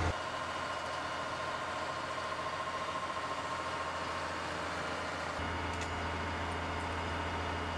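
Heavy machine engine running steadily with a low hum; the hum gets louder about five seconds in.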